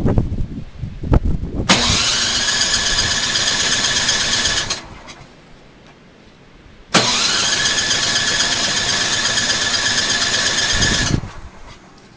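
Snowblower's electric starter cranking the engine in two tries, about three seconds and then about four seconds, each a steady whine that cuts off suddenly; the engine does not catch. A few knocks come before the first try.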